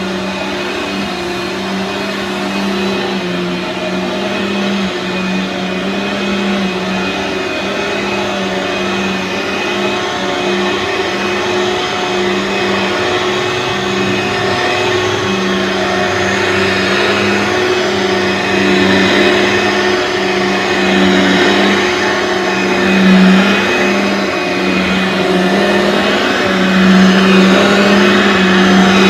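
Aeros upright vacuum cleaner (model U162C) running steadily: a loud motor hum with an airy rush above it, slowly getting louder.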